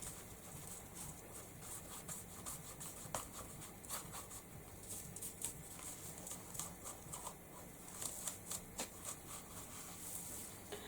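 Faint, irregular dabbing and rubbing of paint being blended back and forth on a painted chopping board, with small soft taps scattered throughout.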